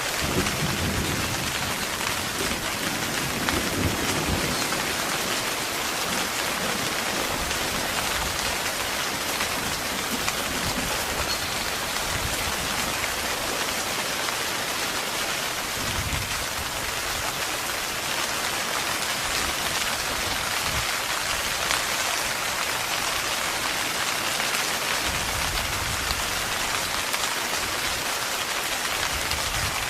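Heavy rain falling steadily on a tent, with low rumbles of thunder in the first few seconds and again around the middle and near the end.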